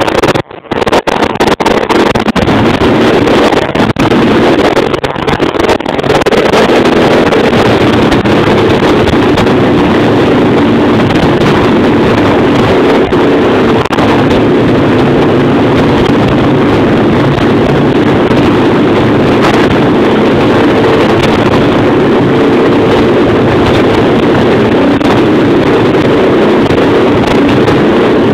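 Baja X250 Extreme dirt bike engine running loud, uneven and cutting in and out for the first six seconds after starting, then settling into a steady run.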